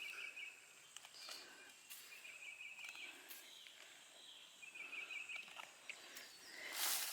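A faint, high buzzy trill from a calling animal, repeating in short bursts about every two and a half seconds, with a brief rustle near the end.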